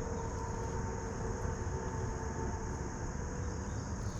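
A steady motor hum over a low rumble, fading near the end, with a constant high insect buzz.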